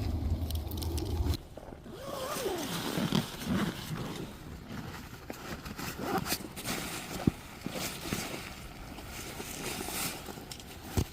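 Camping gear being handled and packed up: scattered rustling, scraping and clicking, with a low wind rumble on the microphone for the first second and a half.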